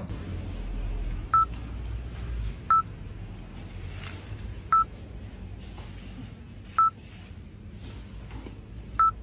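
An electronic device beeping: five short, identical high beeps about two seconds apart, over a steady low background rumble.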